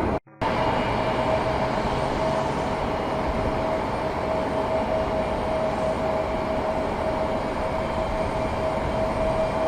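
Jet aircraft engines running with a steady rumble and a held whine, broken by a brief dropout just after the start.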